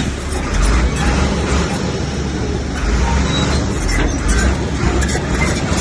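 Komatsu bulldozer's diesel engine running with a deep, steady rumble, with a few scattered knocks from the machine at work.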